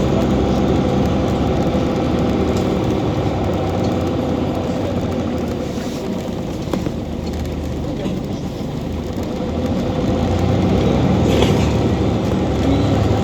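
Scania OmniCity city bus's diesel engine running under way, a steady low drone that eases off for a few seconds midway and then picks up again.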